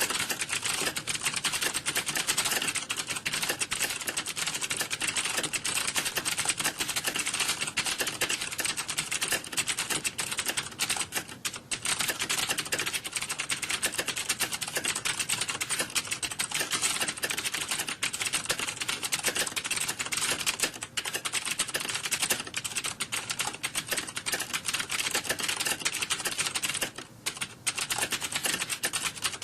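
Computer keyboard typing: a dense, unbroken stream of rapid keystroke clicks, with two brief lulls, one about a third of the way in and one near the end.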